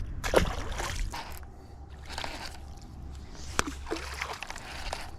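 Water splashing and sloshing in a few short bursts, with a sharp click about three and a half seconds in.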